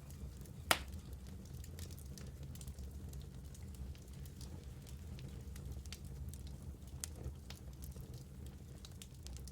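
Wood fire burning in a fireplace: a steady low rumble of flames with scattered crackles and one loud pop about a second in.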